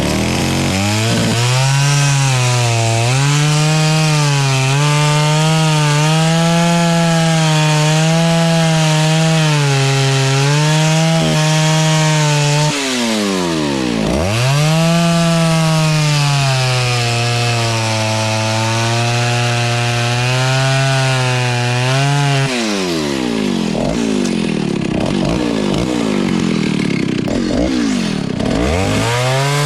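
Vintage Stihl S-10 56cc two-stroke chainsaw cutting wood, the engine held under load at a steady pitch. About 13 s in the pitch drops sharply and climbs back. From about 22 s the pitch swings down and up several times as the throttle is let off and opened again.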